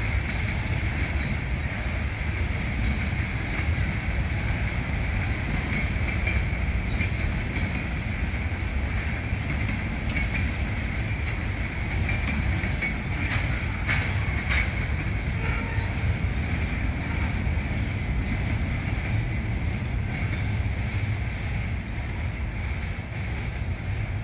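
Freight train cars rolling past, a steady rumble with a band of wheel-on-rail ringing and a few sharp clicks from the wheels about halfway through.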